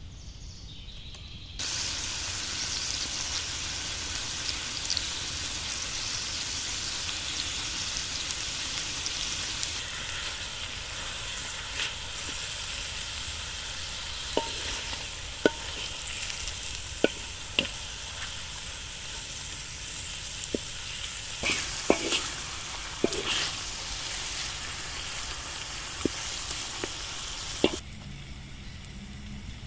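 Lamb pieces frying in hot oil in a large steel wok, sizzling steadily; the sizzle starts about a second and a half in and stops abruptly near the end. From about halfway, a wooden spatula knocks and scrapes against the pan a dozen or so times as the meat is turned.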